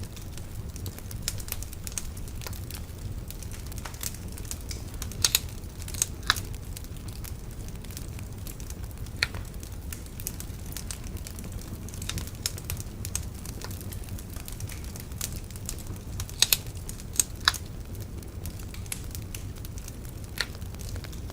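Wood bonfire burning: a steady low rumble under scattered sharp crackles and pops from the burning wood. A few louder snaps come about five and six seconds in, and again around sixteen and seventeen seconds.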